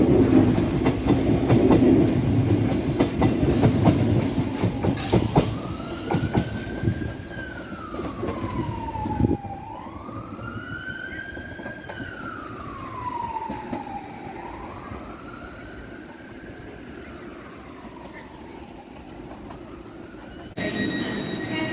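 A Class 707 electric train running and then fading away, with wheel clicks over the rail joints, its noise dying down over the first half. A distant wailing siren rises and falls slowly through the middle, and near the end the sound changes abruptly to another steady train noise with thin whining tones.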